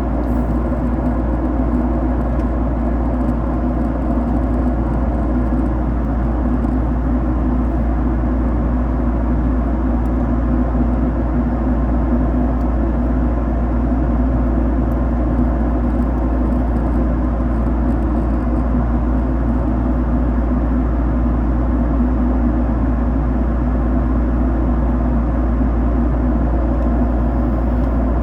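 Jet airliner cabin noise: a steady, loud rumble of engines and airflow, unchanging throughout.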